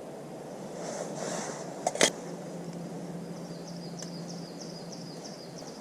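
Two sharp clicks about two seconds in, after a brief rustle. Then a small bird sings a quick series of short, high, repeated chirps over a steady low hum.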